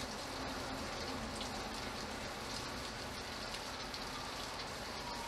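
Steady rain, with water dripping off a roof edge: scattered taps over an even hiss.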